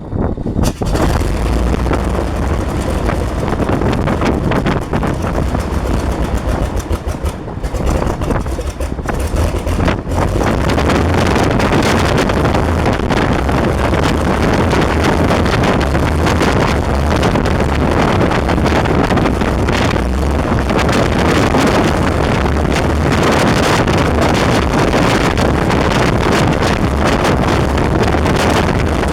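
Renault 6Q-10 air-cooled inverted six-cylinder aircraft engine running on a ground run, with propeller wash buffeting the microphone. It runs unevenly with brief dips for about the first ten seconds, then settles to a steady run.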